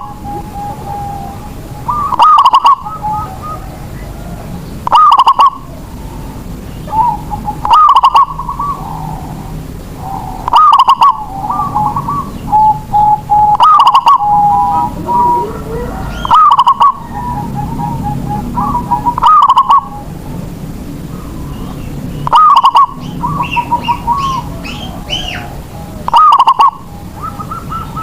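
Zebra dove (perkutut) cooing: a loud, trilled coo phrase repeated about every three seconds, with fainter cooing between and a few higher chirps from another bird near the end.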